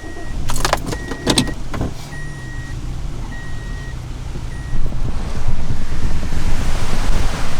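Car interior sounds: a few clicks and knocks of the door and keys, with the car's warning chime beeping about once a second. The chime stops a little before 5 s, and a louder steady rushing noise takes over.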